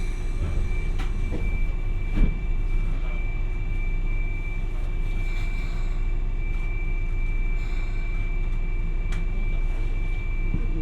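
Hiroden 700-series tram car 701 running along the line: a steady low rumble of motors and wheels with a steady high whine over it. A few sharp clicks or knocks come through, the loudest about two seconds in.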